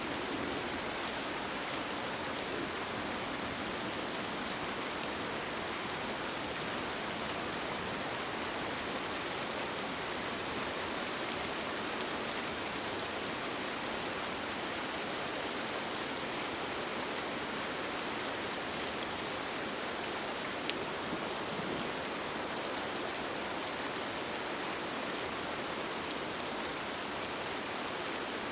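Steady rain falling, an even hiss with an occasional single drop ticking.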